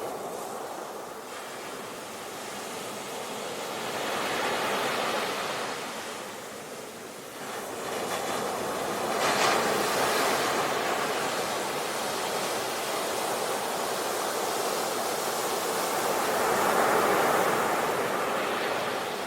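Sea waves breaking and washing on a shore: a steady surf that swells and eases in slow surges, the loudest about halfway through and again near the end.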